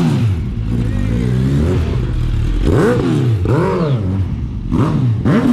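Motorcycle engine revved in a series of quick throttle blips, about five, the pitch rising and falling with each one.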